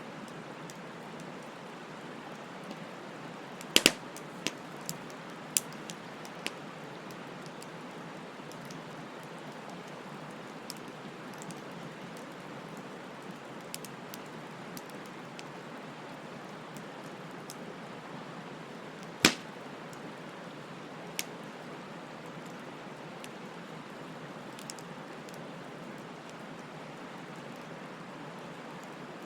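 Bonfire burning, with a steady hiss and scattered sharp crackles and pops. A loud burst of pops comes about four seconds in, followed by a few smaller ones, and another loud single pop comes about two-thirds of the way through.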